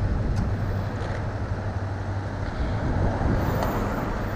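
Steady wind rushing over the microphone while riding a dual-motor electric scooter, with a constant low hum underneath.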